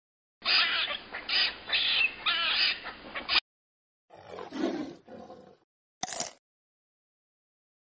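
Cartoon animal sound effects played one after another: first a squirrel's chattering calls, several in a row for about three seconds, then a tiger's short roar. Near the end comes a brief high hiss.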